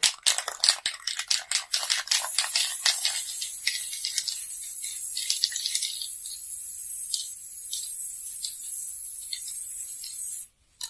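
Aerosol spray-paint can shaken, its mixing ball rattling rapidly, then a steady hiss of spray for several seconds that cuts off suddenly near the end. The can is being sprayed upside down to clear the nozzle after painting.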